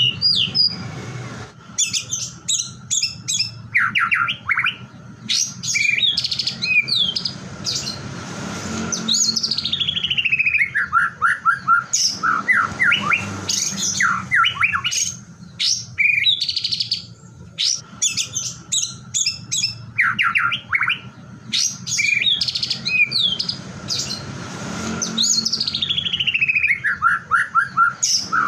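White-rumped shama singing a loud, varied song of quick whistled notes and chattering phrases, with long trills that slide down in pitch. The same sequence comes round again about every sixteen seconds.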